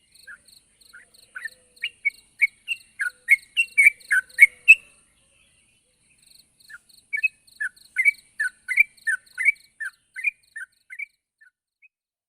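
Yellow-vented bulbul (trucuk) singing: two bouts of quick, bubbling chirps, about three notes a second, separated by a pause of nearly two seconds.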